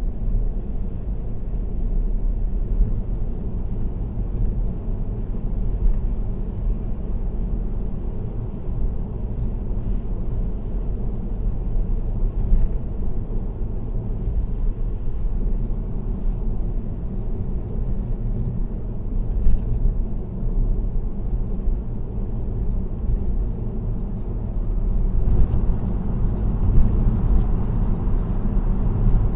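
Steady low road rumble and tyre noise of a car cruising on an expressway. The higher hiss grows a little louder about 25 seconds in.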